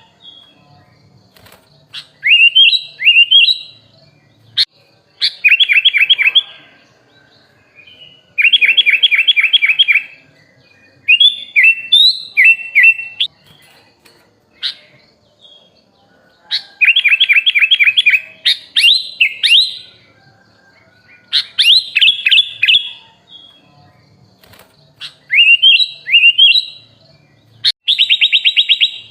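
Sooty-headed bulbul (kutilang) singing: short loud phrases of rapid chirping notes and rising whistled notes, repeated every two to three seconds with brief pauses between.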